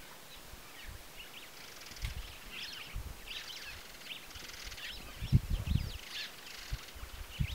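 Many small birds chirping and twittering, with scattered low dull thumps, the loudest a cluster about five and a half seconds in.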